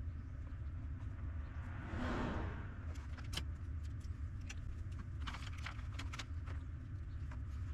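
Handling of small parts on a workbench: a brief rustle about two seconds in, then a scatter of small clicks and taps, over a steady low hum.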